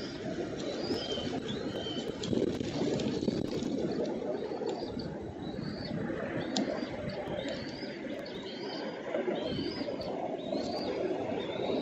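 A bird repeating a short, high, arched whistled note about once a second, over a steady low rushing background.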